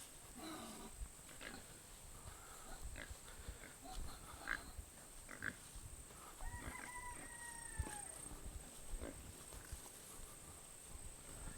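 Pigs grunting faintly and snacking at a feed trough, in scattered short sounds. A drawn-out call comes about six and a half seconds in, and a steady high whine runs underneath.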